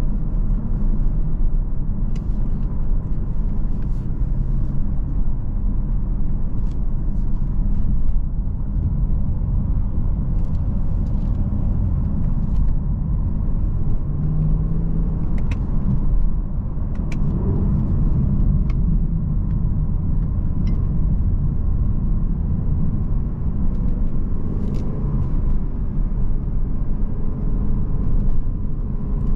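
Lexus LC 500's 5.0-litre V8 running steadily while driving: a low, even rumble with road noise, and a few faint scattered clicks.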